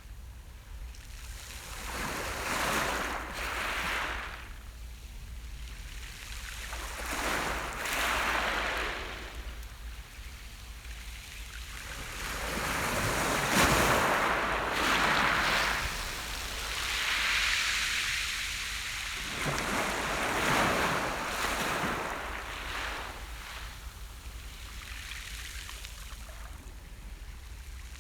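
Sea surf: small waves breaking and washing up on the shore every few seconds, each one a rising and falling rush.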